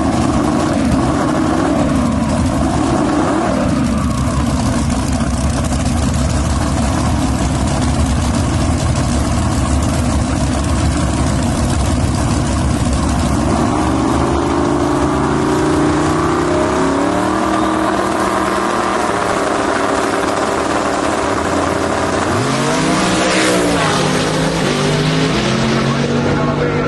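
Loud race vehicle engine running, its pitch climbing in steps in the second half, then dropping and rising again near the end.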